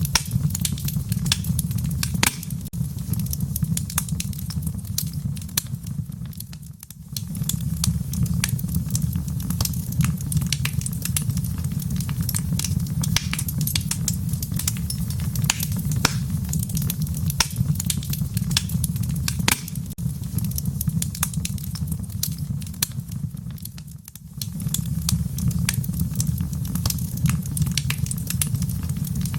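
Wood fire in a fireplace crackling, with many sharp pops and snaps over a steady low rumble. It dips briefly twice, about seven seconds in and again near twenty-four seconds.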